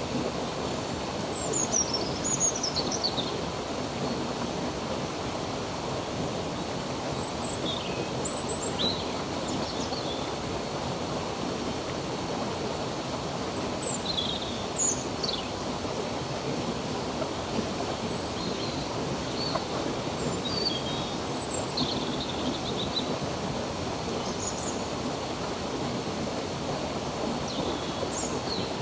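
A stream running steadily, with small birds chirping over it: short, high, falling chirps every second or few.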